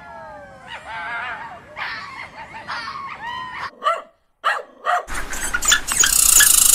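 A dog whining in high, wavering, gliding calls, then giving a few short yips. Near the end a louder, high hiss with rapid clicking takes over.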